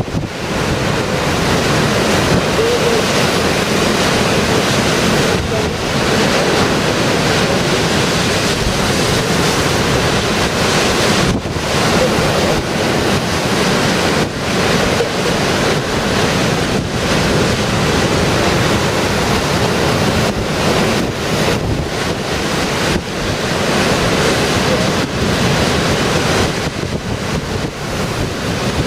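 Storm waves breaking and surging on the shore, with strong wind buffeting the microphone in a loud, steady roar.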